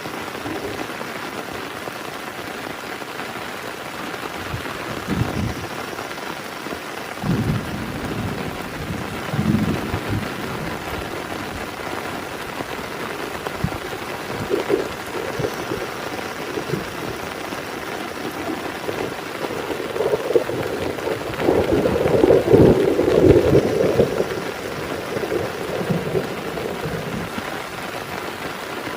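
Heavy rain falling steadily, with thunder rumbling several times; the longest and loudest roll comes about three-quarters of the way through.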